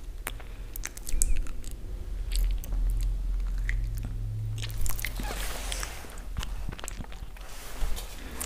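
Close-miked chewing of raw basmati rice: irregular crisp crunches and clicks as the hard grains are bitten.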